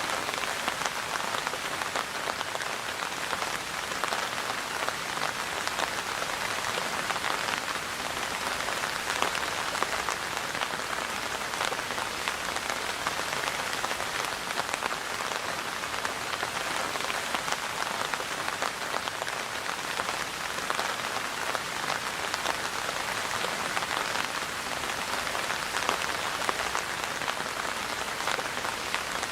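Steady rain falling, a continuous hiss of many small drop impacts that neither swells nor fades.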